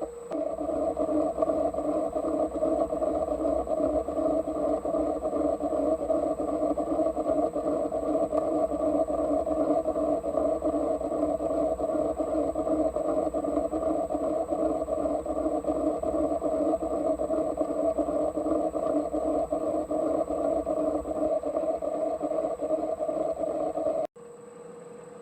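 Metal lathe taking a roughing cut with a carbide insert tool on the crank web of a crankshaft turned from bar stock: a loud, steady, rough cutting noise over the running lathe. It cuts off abruptly about 24 s in, leaving a quieter steady lathe hum.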